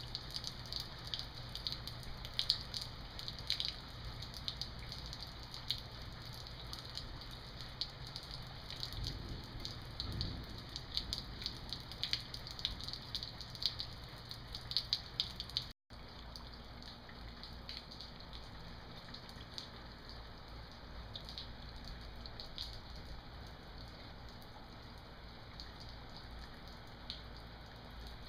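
Rain falling steadily, with many individual drops ticking sharply on a hard surface. About halfway through the sound drops out for an instant, and after that the ticking is sparser.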